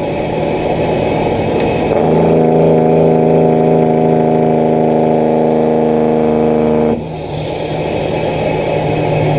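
Diesel truck engine running, then its Jake brake (engine compression brake) comes on about two seconds in with a loud, steady pitched drone and cuts off suddenly about five seconds later, leaving the engine running on.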